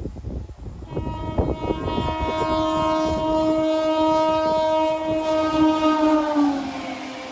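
Express train running past at high speed, its locomotive horn sounding one long blast over the clatter of wheels on rails. The horn's pitch drops near the end as the locomotive passes.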